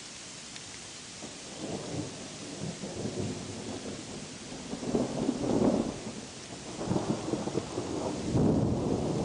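Steady rain hiss, then a long rolling thunder rumble that starts about a second and a half in and swells in waves, growing louder toward the end.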